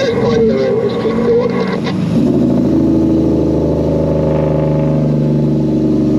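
Semi truck's diesel engine running steadily, rising a little in pitch and loudness about two seconds in as it pulls.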